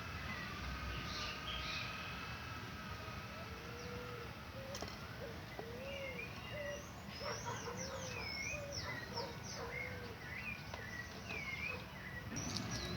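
Several birds calling. A long wavering whistle sounds in the first couple of seconds. From about a third of the way in comes a series of short, low, arched notes about once a second, joined by quick higher chirps.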